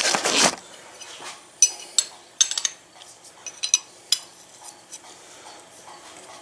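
A loud rustling noise at the start, then a run of sharp metallic clinks with a brief ring, from hand tools and a metal hose fitting being handled and set down on a workbench.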